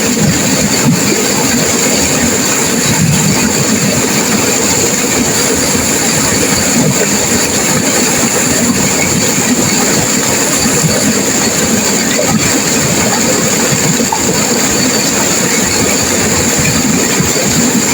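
Turbulent river water crashing and rushing: a loud, steady wash of white-water noise with no pauses.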